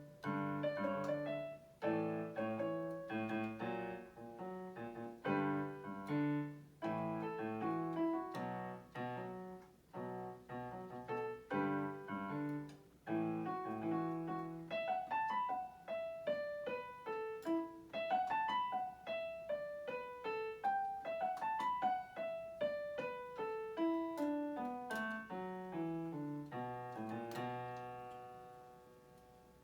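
Solo piano music played on an electronic keyboard: repeated chords, then from about halfway flowing arpeggios that rise and fall, a descending run, and a last chord fading away near the end.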